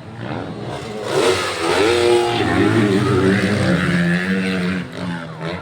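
Motocross dirt bike engines revving hard as they pass. The engines get loud about a second in, rise and fall in pitch with the throttle, and die down near the end.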